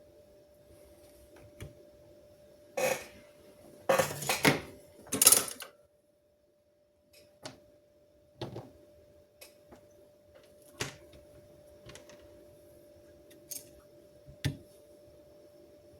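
Small metal tools and parts clinking and clattering, with a burst of clatters in the first half and single ticks after, over a faint steady hum.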